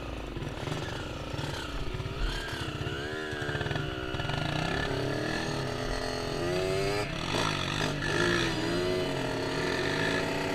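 Small off-road engines of a Kawasaki KX65 dirt bike and a Raptor 125 quad being ridden, revving up and down with the pitch rising and falling repeatedly.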